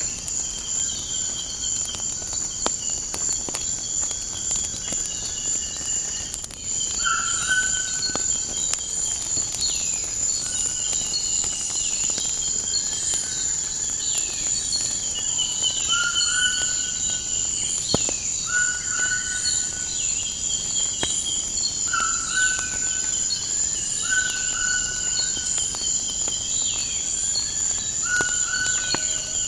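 Nature ambience: a steady high-pitched drone of crickets with many repeated bird calls and chirps, which grow louder about a quarter of the way in, and occasional sharp pops of a crackling wood fire.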